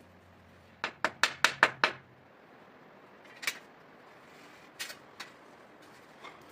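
A quick run of six sharp knocks about a second in, then three single knocks spread over the following seconds: hard strikes, as in work on the shelter.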